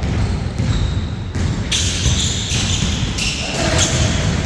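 Basketball game play: a ball bouncing and thudding on the court, with a run of sharp impacts about a second apart.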